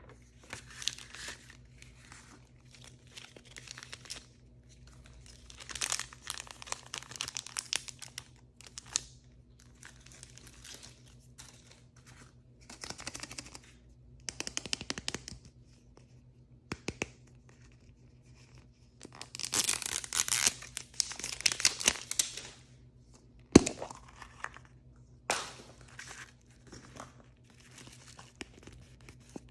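Plastic blind-bag packaging being torn open and crinkled by hand, in irregular spells of rustling, with one sharp click a little past two-thirds of the way through.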